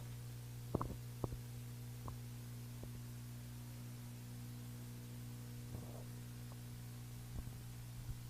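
Steady low electrical hum with a few faint overtones above it. A few brief clicks come about one to two seconds in.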